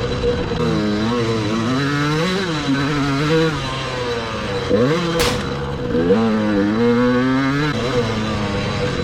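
Dirt bike engine revving up and down repeatedly as the bike is ridden round a motocross track, with one sharp click about five seconds in.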